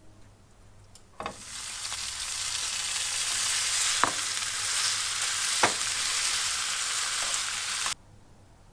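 A steady, even hiss that starts with a click about a second in, carries two sharper clicks along the way, and cuts off abruptly near the end.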